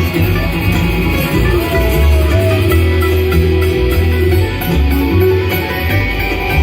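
A bluegrass band playing, led by picked guitar.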